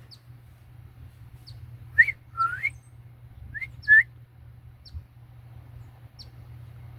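Birds calling: short rising whistled notes, a pair about two seconds in and another pair about four seconds in, with faint thin high peeps scattered between.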